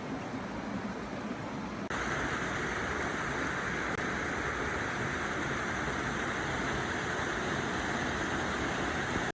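Stream water flowing, a steady rush that abruptly becomes louder and brighter about two seconds in.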